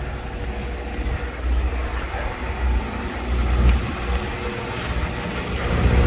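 Wind buffeting the microphone in uneven low gusts, over a steady outdoor background hum.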